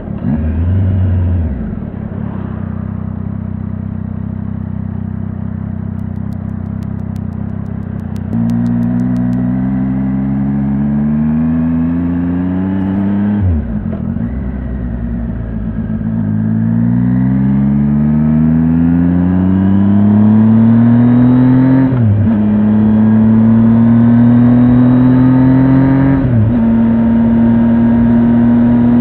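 Triumph Tiger 800 XRT motorcycle's three-cylinder engine running low and steady with a brief blip of throttle, then pulling away about eight seconds in. Its pitch rises through the gears, falling sharply at three upshifts, before it settles to a steady cruise near the end.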